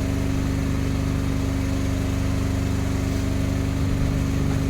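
Fishing boat's engine running steadily at a constant speed, a low, even drone with a fast regular pulse.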